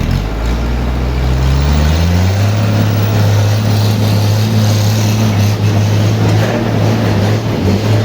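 Engine speeding up over about two seconds, then running steadily at the higher speed.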